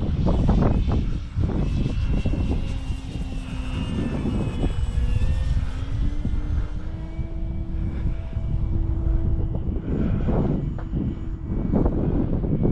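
Electric motor and propeller of an E-flite Extra 300 model aeroplane whining, stepping up in pitch partway through, under heavy wind buffeting on the on-board microphone that is loudest at the start and near the end.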